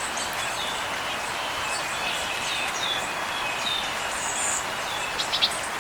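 A small songbird repeating short, falling call notes, roughly one or two a second, over a steady background hiss, with a brief higher chirp about four and a half seconds in.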